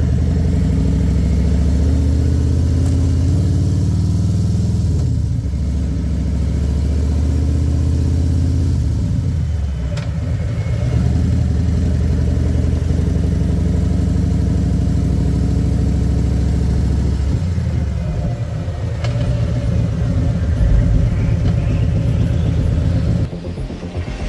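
Harley-Davidson Milwaukee-Eight V-twin engine running while the motorcycle is ridden, its pitch rising and falling with throttle, dipping several times as it eases off or shifts. The sound drops off abruptly about a second before the end.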